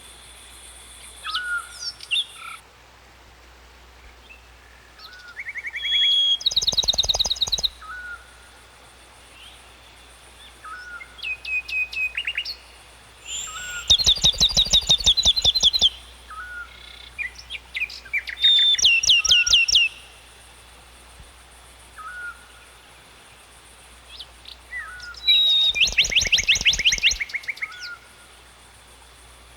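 Songbirds singing: one bird repeats a short call about every two seconds, while another bird's fast trilled song phrases come five times, each lasting one to two seconds.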